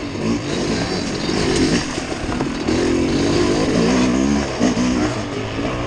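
Off-road vehicle engine running under load, its pitch rising and falling repeatedly as the throttle is worked on a rocky trail.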